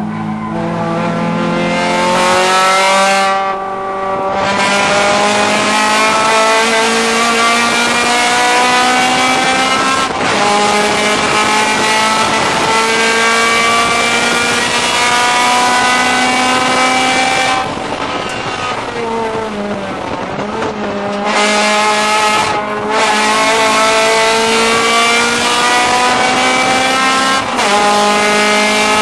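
Honda Civic race car's four-cylinder engine, heard from inside the cabin, pulling hard through the gears: the pitch climbs steadily and drops at each upshift, several times. About two-thirds through the engine comes off the throttle and winds down briefly, then pulls up again.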